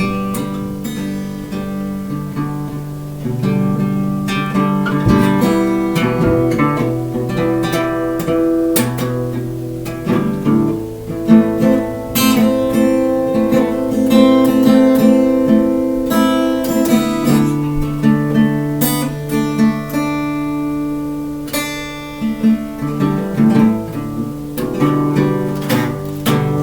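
Acoustic guitar played solo: strummed and picked chords of a song introduction, with no singing.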